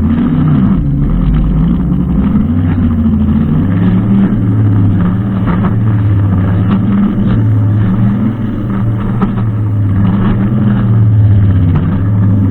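Brushcutter engine running steadily at working speed, its pitch wavering slightly, with faint scattered clicks over it.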